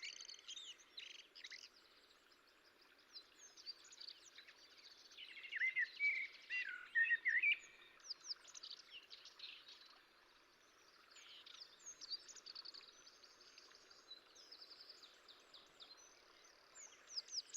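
Small birds chirping and calling, many short, quick notes throughout, busiest and loudest about five to seven seconds in, over a faint steady background hiss.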